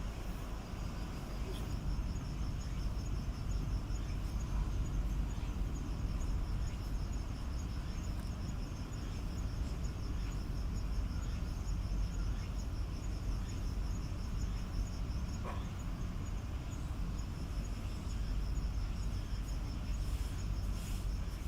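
An insect singing a high, rapidly pulsing trill in long runs with short breaks, over a steady low outdoor rumble.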